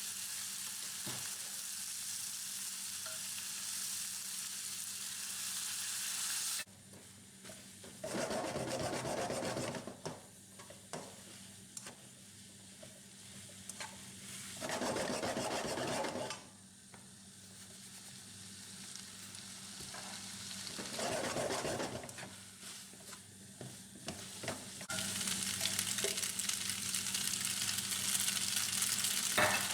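Food sizzling and frying in a pan. The sizzling cuts off suddenly about a quarter of the way in. In the quieter stretch that follows come three bursts of stirring a few seconds apart, then the sizzling starts up again near the end.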